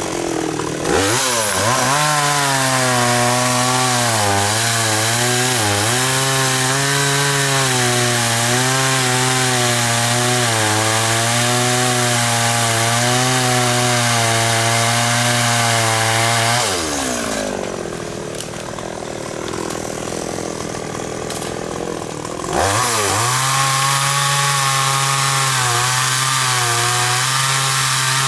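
Two-stroke chainsaw revved up about a second in and held near full throttle, its pitch dipping briefly now and then as it cuts through khaya (xà cừ) wood. About two-thirds of the way through the throttle drops and it falls to a lower, quieter idle, then it is revved up again near the end.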